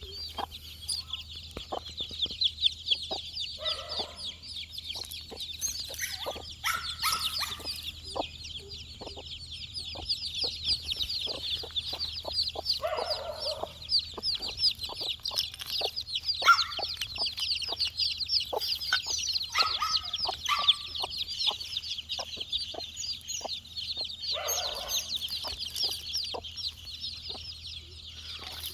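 A flock of four-day-old chicks peeping continuously, a dense chorus of short, high cheeps. Lower clucking calls come in short spells several times, with scattered sharp ticks throughout.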